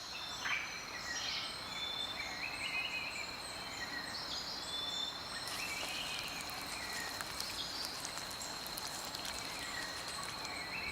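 Rainforest ambience: a steady high-pitched insect hum over a background hiss, with scattered short bird chirps.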